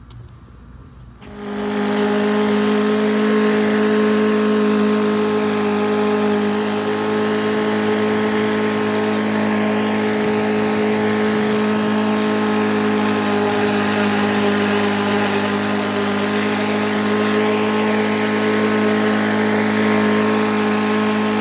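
Yardmax 170cc single-cylinder gas walk-behind lawn mower engine running at a steady speed, mowing grass. It comes in about a second in and holds one even pitch throughout.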